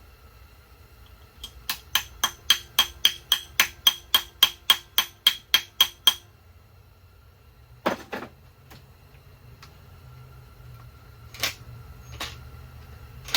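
A hammer striking metal in a steady run of about nineteen sharp, ringing blows, roughly four a second, that stops suddenly; a few loose clanks and clinks of tools follow.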